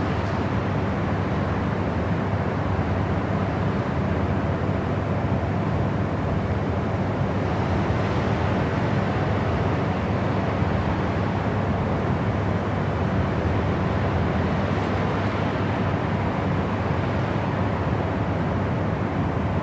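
Steady white-noise sleep sound: an even, deep rushing hiss, heaviest in the low range and dull at the top, with no change in level.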